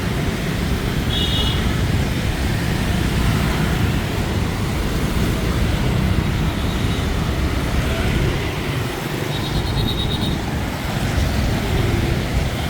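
Dense city street traffic, mostly motorbikes, running steadily, with two short high-pitched beeps, one about a second in and another near ten seconds in.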